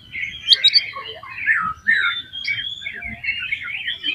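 Oriental magpie-robin (kacer) singing a fast, varied, unbroken song of rapidly changing notes.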